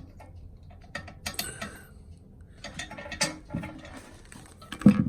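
Irregular clicks and scrapes of a toilet's tank-to-bowl screws and nuts being loosened and taken off, the loudest near the end.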